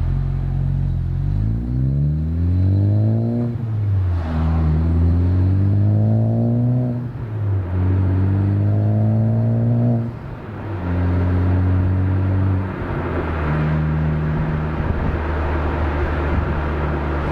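Honda Civic Type R (FK8) 2.0-litre turbocharged four-cylinder, heard at the exhaust through a catted downpipe and the stock cat-back. It pulls hard through three gears, the note rising each time and dropping sharply at each upshift. About two-thirds of the way in it settles to a steadier, lower note at part throttle.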